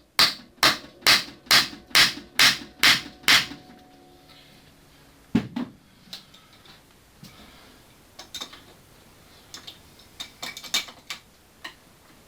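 Hammer blows on a seized engine mounting bolt: about eight quick, evenly spaced strikes with a metallic ring, one more strike a couple of seconds later, then a few lighter metallic clinks.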